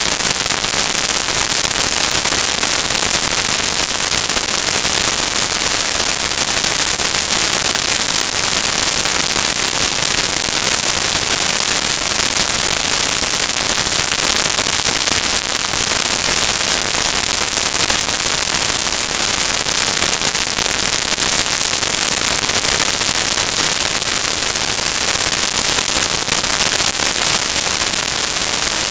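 Loud, steady crackling hiss like static, with no distinct events.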